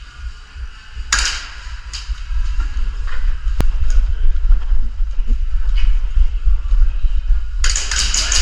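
Deep rumble of wind and handling noise on a body-worn camera microphone, with a few scattered clicks. Near the end comes a rapid string of sharp cracks, an airsoft gun firing a burst.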